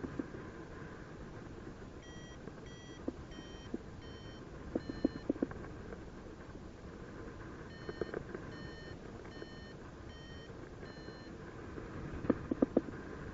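Paragliding variometer beeping in short high pulses, about two a second, in two runs: the climb tone that signals the glider is rising in lift. Under it a steady rush of wind noise, with bursts of sharp crackling clicks, loudest near the end.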